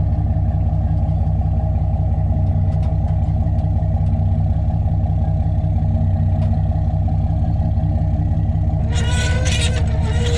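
An engine running steadily at an even, low speed, with a fast, regular low pulse; a few brief higher sounds come in near the end.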